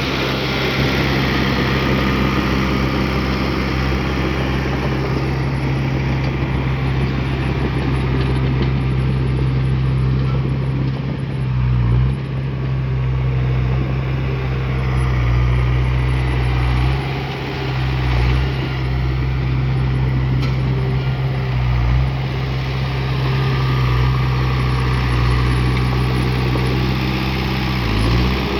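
Bulldozer's heavy diesel engine running steadily, its low note dipping briefly in pitch a few times.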